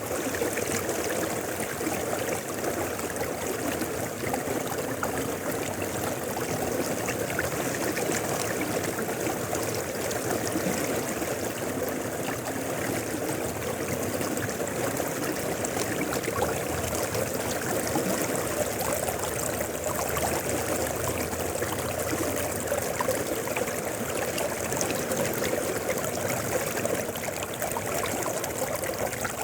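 Mountain river flowing steadily, a continuous rushing and gurgling of water over stones.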